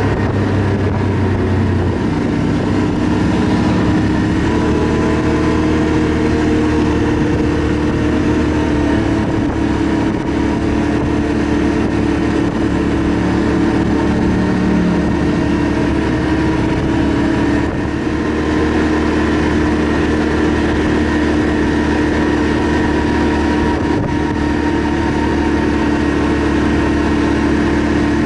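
ATV engine running steadily while being ridden, over a constant rush of noise. Its pitch steps up about two seconds in and again a couple of seconds later, then holds.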